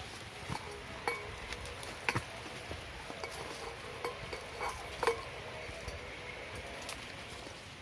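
Irregular light clinks and knocks, some with a brief metallic ring, over a low steady rumble.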